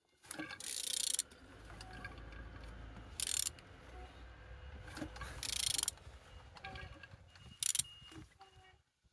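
BMW B47D20 four-cylinder diesel engine being turned over by hand at the crankshaft, with mechanical turning and ratcheting noise and four short bursts of rasping, over a low rumble through the middle. The engine turns freely and is not seized.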